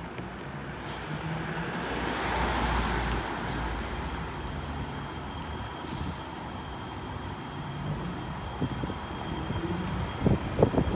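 Fire engine's diesel engine running as the truck drives past, loudest about two to three seconds in, with a short hiss about six seconds in and a few thumps near the end.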